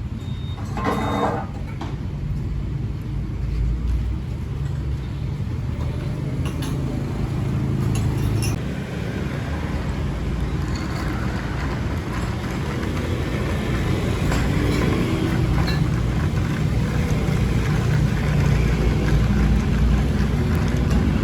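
Steady low rumble of city street traffic, motorbikes and cars passing, growing louder near the end, with a few light clicks partway through.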